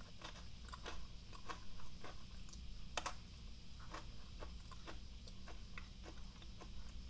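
Crunchy Glico Pretz pretzel sticks being bitten and chewed close to the microphone: a run of short dry crackles, with one sharper snap about three seconds in.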